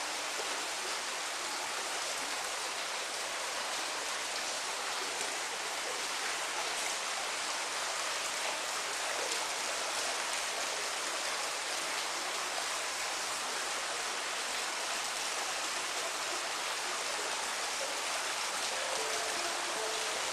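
Steady rain: an even hiss of falling water with no change through the stretch.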